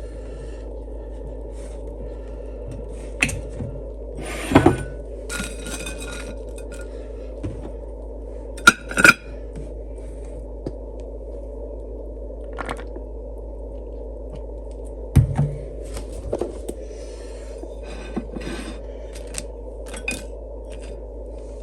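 A spoon and dishes handled while a dip is prepared: scattered separate clinks, knocks and scrapes, the loudest about four and nine seconds in, over a steady low hum.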